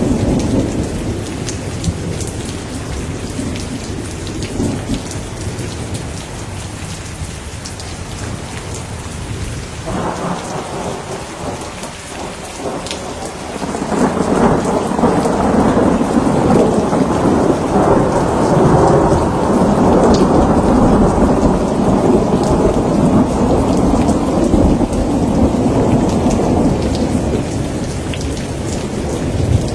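Steady rain with rolling thunder. The thunder starts about ten seconds in and grows into a long, loud rumble from about fourteen seconds, easing off near the end.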